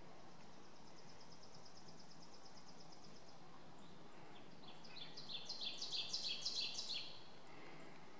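Songbirds singing against a quiet background hiss: a high, rapid, even trill for about three seconds, then a louder, more varied song of quick notes over a wider pitch range, starting about five seconds in and lasting about two seconds.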